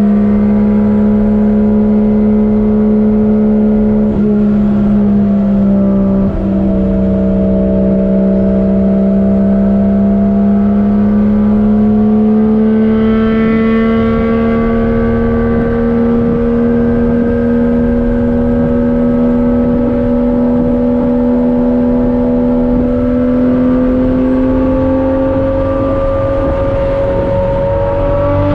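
Nissan 240SX's swapped 1JZ-GTE VVTi straight-six turbo engine pulling at a steady cruise. Its drone rises slowly in pitch as the car gathers speed.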